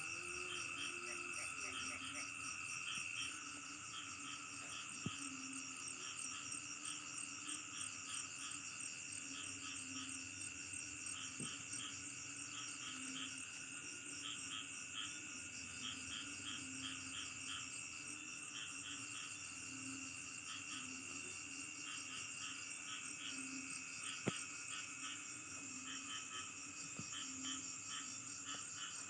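Night chorus of crickets and other insects, a steady overlapping trilling in several high pitches, with frogs calling in a low, pulsing chorus beneath. Two sharp clicks stand out, about five seconds in and again later on.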